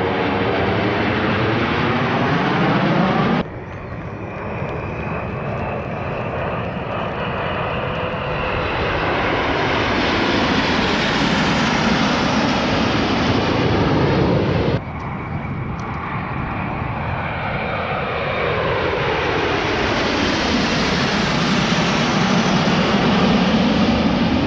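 Alpha Jet formation of the Patrouille de France passing overhead, a loud, continuous jet roar that swells and fades as the aircraft fly by. The sound drops abruptly twice, about three seconds in and about fifteen seconds in, and builds up again each time.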